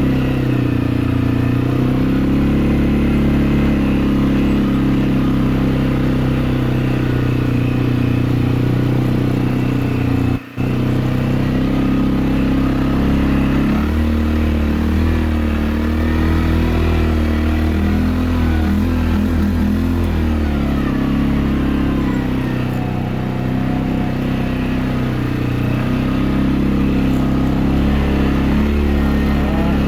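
CFMOTO CForce 400 ATV's single-cylinder engine running under load in low gear as it pushes through deep wet snow, its note rising and falling with the throttle while the wheels spin. The sound drops out for an instant about ten seconds in.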